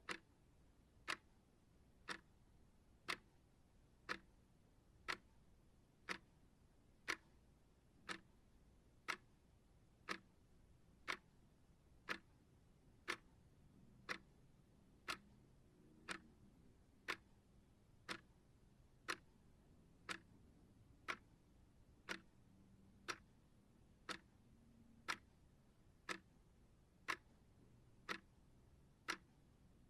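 Clock ticking steadily, one sharp, dry tick each second.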